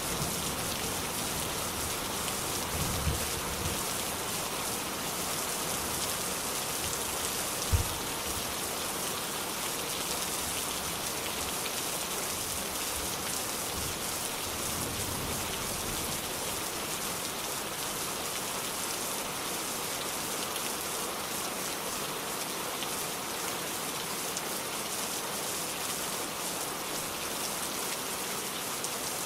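Steady rain falling on a surface, an even hiss throughout. There is a low thump about three seconds in and a short, sharper one near eight seconds.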